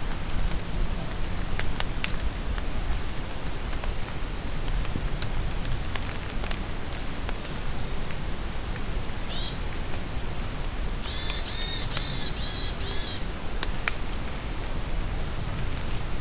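Steady rain falling in a forest, with scattered drops ticking, and birds singing over it: a few short high chirps, then a loud rapid run of about six high notes a little past the middle.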